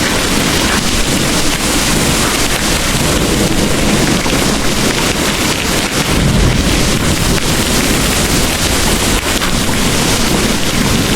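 Heavy rain pouring steadily: a dense, even hiss with a low rumble beneath it.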